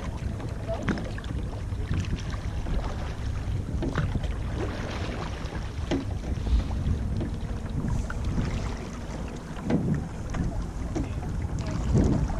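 Rowing shell being backed by its crew: water swishing and scattered knocks of oars in their oarlocks, over a steady low rumble of wind on the microphone.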